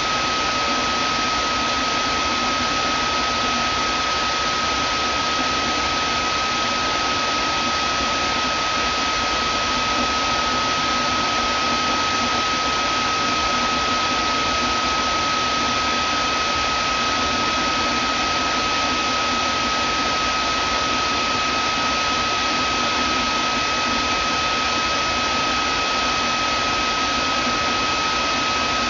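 Vacuum cleaner motor running steadily: a constant rushing airflow with a steady high whine.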